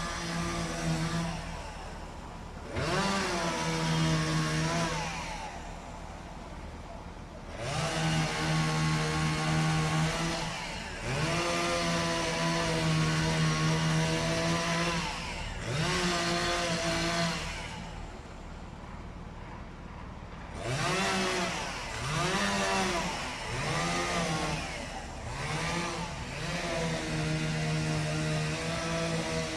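Two-stroke chainsaw engine revving up again and again. It holds high speed for a few seconds at a time, then drops back to idle between runs.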